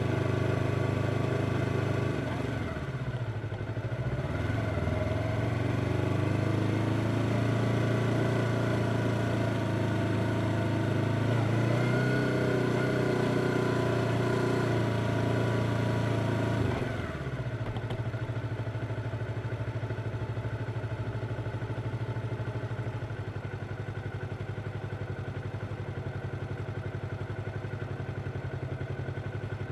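Yamaha R25's parallel-twin engine running with small throttle changes, then the revs fall sharply about two-thirds of the way through and it settles into a steady idle.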